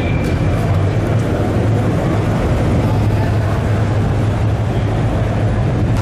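A show car's engine running with a steady, deep exhaust rumble, over general noise from a busy hall.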